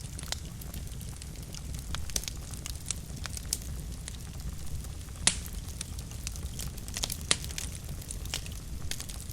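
Fire burning in a fireplace, crackling: a steady low rumble of flames with irregular sharp pops, two of them louder about five and seven seconds in.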